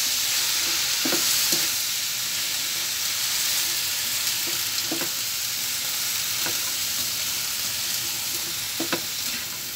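Chopped pechay (bok choy) sizzling as it is sautéed in hot oil in a pan, a steady frying hiss, with a few sharp scrapes of a spatula against the pan as it is stirred.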